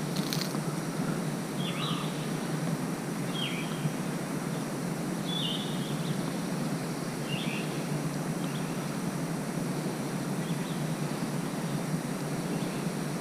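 A bird repeating a short, falling call about every two seconds, fading later on, over a steady outdoor hiss.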